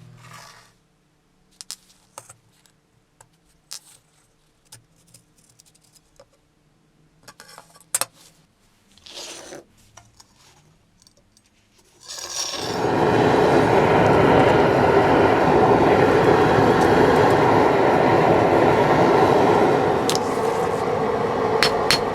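Scattered small clicks and scrapes of hand work on an old knife. About halfway through, a loud, steady, rushing power-tool noise starts as work on the blade begins. Near the end come a few quick, evenly spaced taps.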